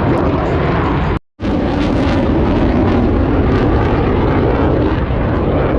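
Loud, steady jet noise from Blue Angels F/A-18 Super Hornets in flight, cutting out completely for a moment just over a second in.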